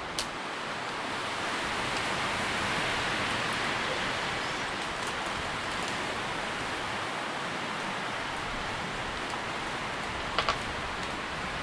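Wind through tree leaves: a steady rustling hiss that swells a little a couple of seconds in, with a sharp tick near the start and two quick ticks near the end.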